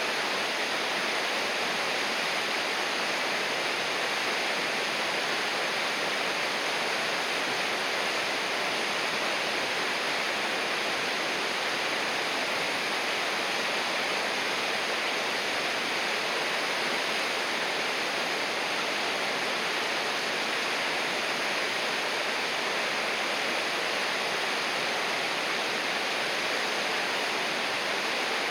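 River water rushing, a steady even sound with no changes.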